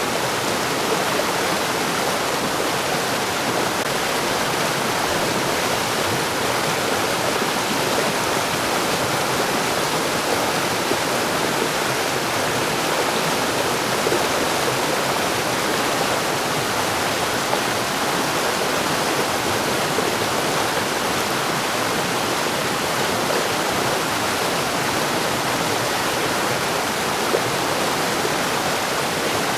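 Mountain stream running over rocks: a steady, even rushing of water.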